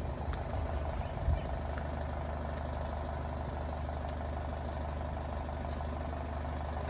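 A vehicle engine idling steadily with a low hum, with a single short knock about a second in.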